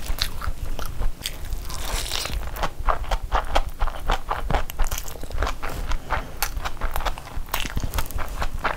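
Close-miked eating sounds of a big mouthful of chicken biryani being chewed: a steady run of sharp clicks and smacks.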